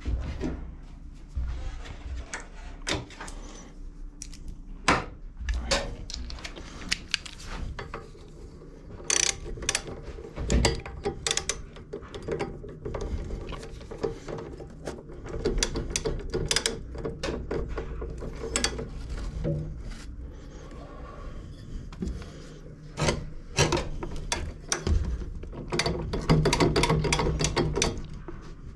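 Irregular metallic clicks, knocks and rattles of hand work on a Stiga Euro 50SH lawn mower, with a denser run of quick clicking near the end.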